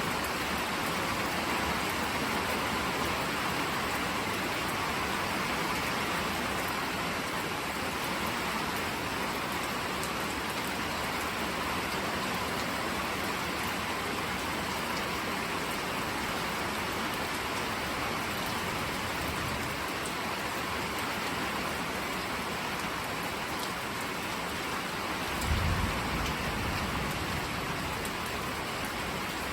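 Steady rain falling. Near the end a brief low rumble of thunder rises over it and fades within about a second.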